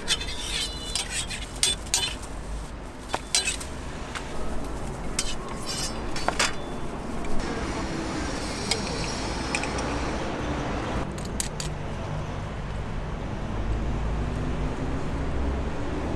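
Metal utensils clinking and knocking against pans and containers at a crepe stall, a quick irregular run of sharp clicks through the first half. A steady low rumble fills the second half.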